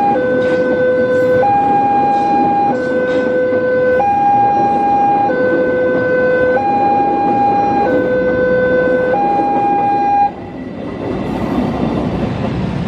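Railway level-crossing warning alarm sounding a slow two-tone chime, low and high notes taking turns about every 1.3 seconds over steady street noise. It cuts off suddenly about ten seconds in, the sign that the crossing is reopening, and road vehicles are heard moving off.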